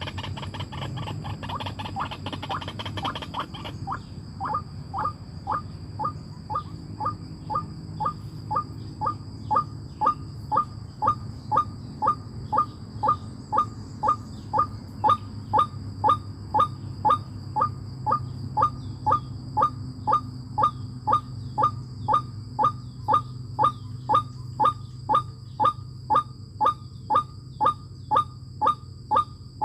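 A bird calling over and over in a steady rhythm, about three short calls every two seconds, after a faster run of rapid pulses at the start. A steady high whine runs underneath.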